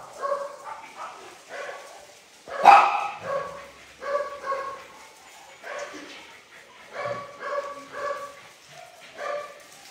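Dogs barking in a series of short, repeated barks, a dozen or so, the loudest about three seconds in.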